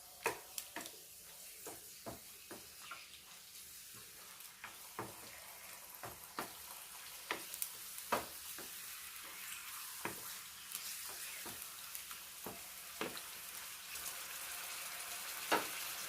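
Marinated chicken cooking in its own juices in a pan of coconut oil, sizzling and bubbling with a hiss that grows steadily louder as it comes to the boil. Repeated sharp clicks and scrapes of a spoon stirring against the pan.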